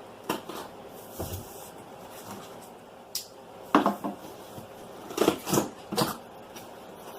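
Cardboard packaging and boxed vacuum parts being handled during unboxing: a string of irregular sharp knocks and clunks, several in quick succession in the second half.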